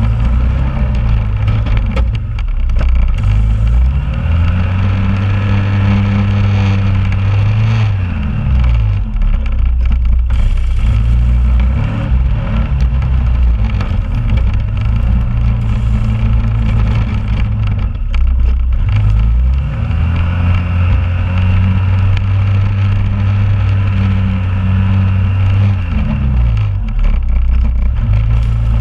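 2001 Honda Rubicon ATV's single-cylinder engine running under throttle while plowing snow, its pitch repeatedly climbing, holding high for several seconds, then dropping back.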